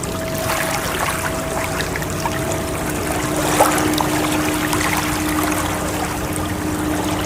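Steady trickling and splashing of running water, with faint held tones underneath and a brief louder click about three and a half seconds in.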